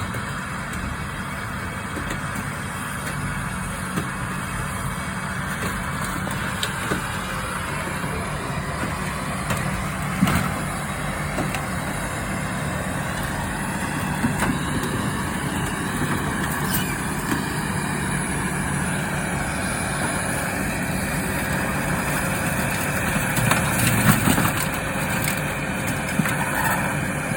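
A motor vehicle running steadily, with a few sharp knocks and clicks over it, the loudest about ten seconds in and again near the end.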